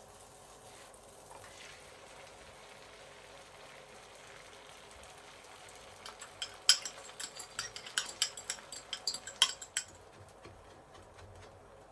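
Faint steady background hiss, then about six seconds in a quick, irregular run of light clicks and clinks lasting about four seconds, like hard objects being handled.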